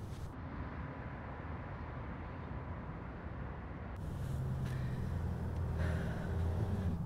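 Car engine idling, a steady low rumble heard from inside the cabin, growing louder with a clearer hum from about four seconds in.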